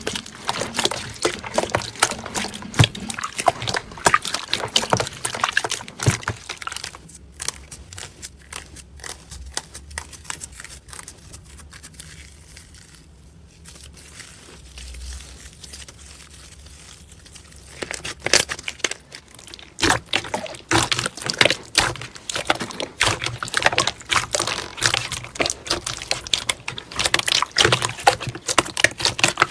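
Slime being squeezed and worked by hand, a dense run of irregular wet clicks, pops and squelches. About seven seconds in it drops to a much quieter stretch with only a faint low hum, and the clicking and squelching come back about eighteen seconds in.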